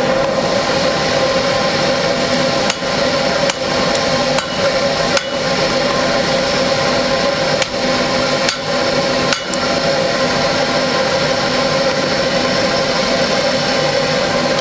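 Electric blower of a coal forge running with a steady hum, joined by several sharp clicks or knocks between about three and nine seconds in.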